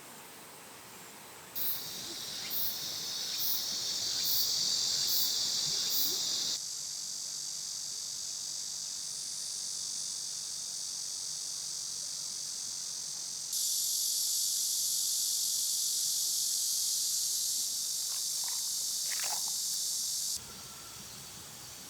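A dense, high-pitched chorus of summer insects buzzing steadily. It starts about a second and a half in, changes abruptly twice, and cuts off suddenly near the end.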